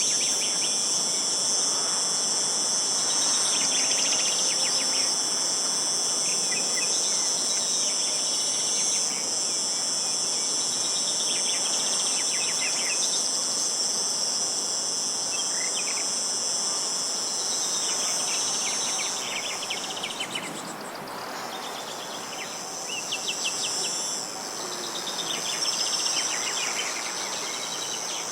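Insects shrilling in a steady, high-pitched chorus, with birds singing short, rapid trills every few seconds. The insect chorus fades briefly about twenty seconds in, then returns.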